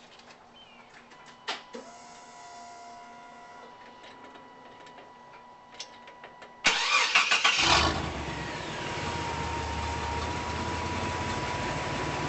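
GMC Syclone's turbocharged 4.3-litre V6 cranking and catching about two-thirds of the way in, then idling steadily through a 3-inch exhaust with a Dynomax muffler. Before it starts there are only a few faint clicks and a thin steady whine.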